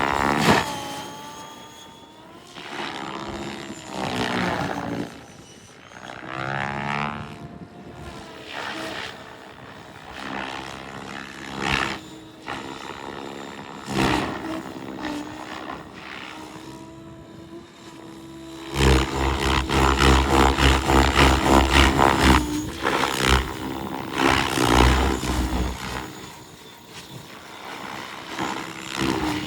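XL Power Specter 700 radio-controlled helicopter in flight, its rotor and drive whine rising and falling in pitch through the manoeuvres. About nineteen seconds in it gets loudest for a few seconds, with a rapid rotor chop.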